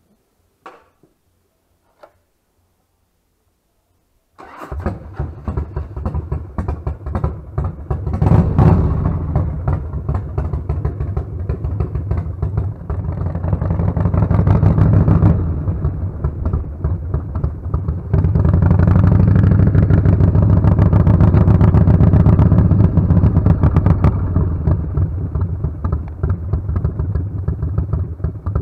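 A few faint clicks, then about four seconds in a cruiser motorcycle's engine starts and runs. It gets louder as the bike is ridden off, about eight seconds in and again between about 18 and 24 seconds.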